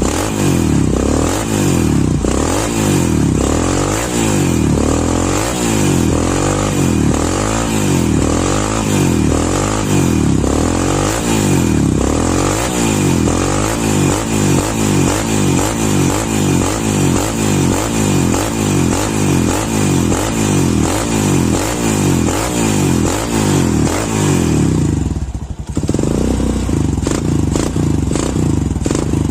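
Honda Tiger Revo single-cylinder four-stroke motorcycle engine, fitted with an EDO E1 racing camshaft and a gutted exhaust muffler, revved again and again. The pitch rises and falls about once a second at first, then in quicker blips about twice a second, with a short drop near the end before it runs on more steadily.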